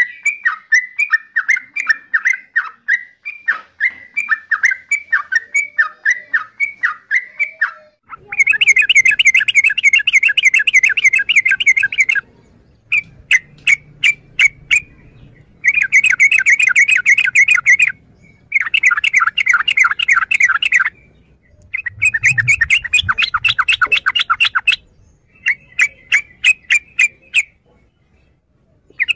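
Yellow-vented bulbul calling: first a run of separate chirping notes, about three a second, then from about eight seconds in, rapid chattering phrases a few seconds long, five of them with short pauses between.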